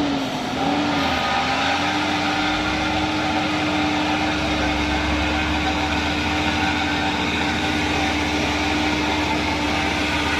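Heavy truck's diesel engine running steadily under load, its pitch wavering briefly about a second in and then holding level.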